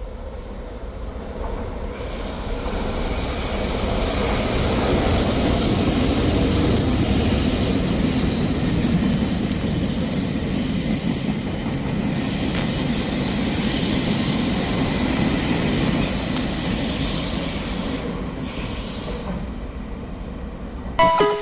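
Taiwan Railway train running past a station platform: a loud rumble and hiss of wheels on rail with a high wheel squeal. It builds about two seconds in and dies away a few seconds before the end.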